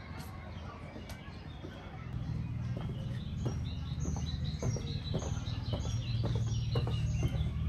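Small birds chirping repeatedly in short, high calls. A low rumble with scattered knocks grows louder about two seconds in.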